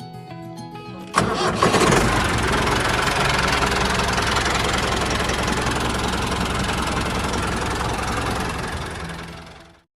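Tractor engine starting about a second in, then running steadily with a low rumble, fading away just before the end. Light music is heard before it starts.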